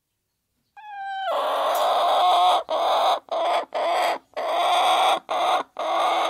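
Chicken calling loudly: a short clear note about a second in, then a run of harsh, raspy squawks, about seven in a row, each half a second to a second long.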